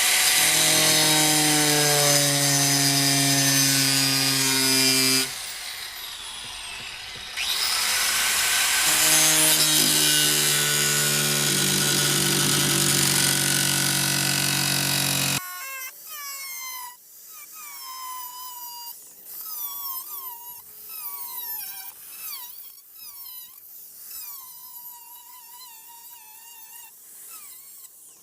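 Angle grinder with a cut-off disc cutting into sheet-metal fender: a loud, steady high whine that runs for about five seconds, pauses briefly, then cuts again for about eight seconds before stopping. Quieter scattered sounds follow.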